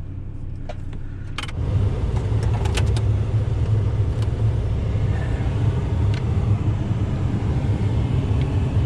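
Steady low rumble of a truck cab with the engine and heater running, stepping up and getting louder about a second and a half in, with a few light clicks near the start.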